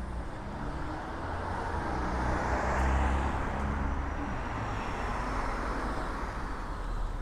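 A car passing on the road: tyre and engine noise swells to a peak about three seconds in and then eases, over a steady low traffic rumble.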